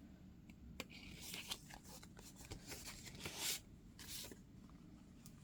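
Faint rustling of paper as the pages of a handmade junk journal are handled and turned, with a few soft swishes about a second in, around three seconds in and again about four seconds in.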